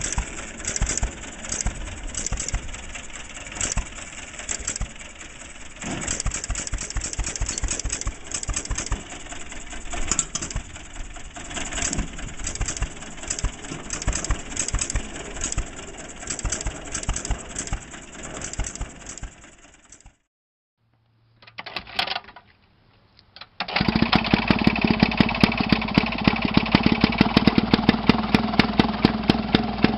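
Small engines of homemade mini tractors running: about 20 s of one engine with an uneven, pulsing beat, then a sudden cutoff. After a short gap, another small engine runs steadily with a rapid, regular firing beat.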